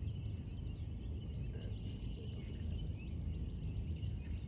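Hawaiian honeycreepers chirping and calling, many short quick notes, over a steady low rumble.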